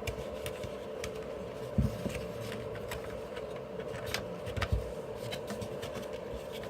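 Light clicks, scrapes and a couple of soft knocks from handling the electric blower's plastic housing and wiring, over a steady background hum.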